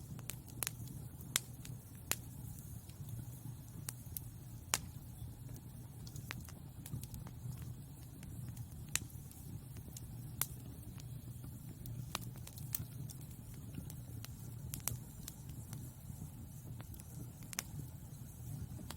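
Wood fire burning in a fireplace: a steady low rumble of flames with irregular sharp pops and crackles from the burning logs, about a dozen loud ones.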